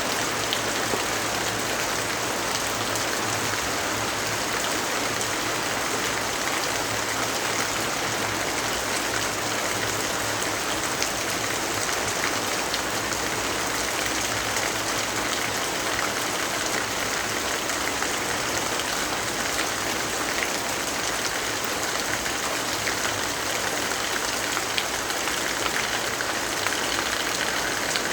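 Steady, dense rainfall: an even hiss with a few faint ticks scattered through it.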